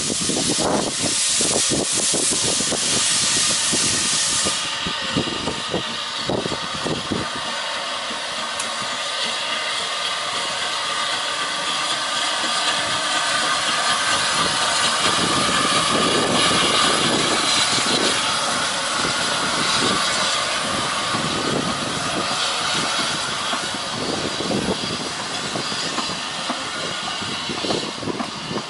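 Narrow-gauge steam locomotive letting off a loud hiss of steam for the first few seconds, then running on with a steady hiss and scattered knocks.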